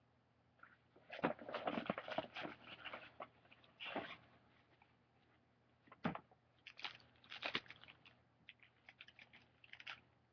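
Packaging crinkling and rustling as it is handled, in irregular bursts with a pause in the middle.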